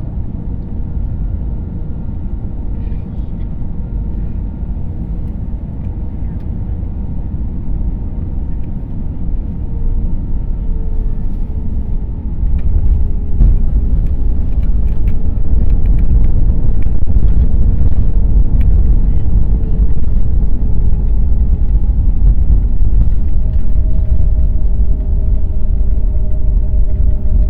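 A jet airliner landing, heard from inside the cabin: a steady low rumble of engines and airflow with a faint whine from the engines. About twelve seconds in it gets abruptly louder, and louder again a few seconds later, typical of touchdown and the runway roll with reverse thrust.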